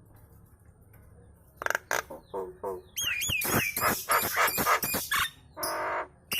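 Nias hill myna chattering: after a quiet first second and a half, a fast run of sharp clicks and harsh rasping calls, with a string of looping whistled notes about halfway through and a longer harsh call near the end.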